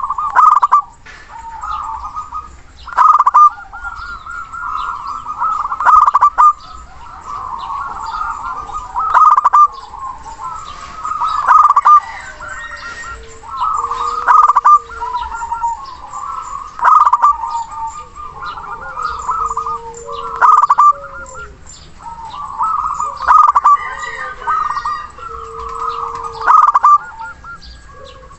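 Zebra dove (perkutut) calling: a repeated cooing phrase that comes again about every three seconds.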